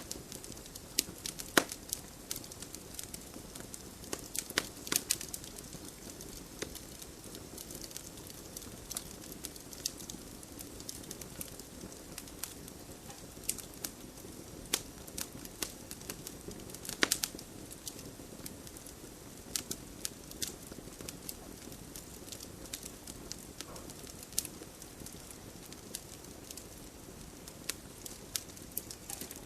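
Wood campfire burning: a steady low rush of flame with irregular sharp crackles and pops, the loudest about a second and a half in and again around seventeen seconds in.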